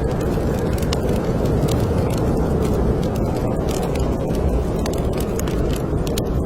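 Steady low wind of a snowstorm, with a wood fire crackling in a fireplace in many small, irregular pops.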